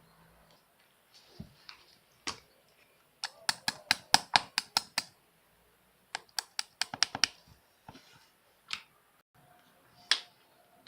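Sharp clicks or taps in two quick runs of about eight each, with a few single clicks before, between and after.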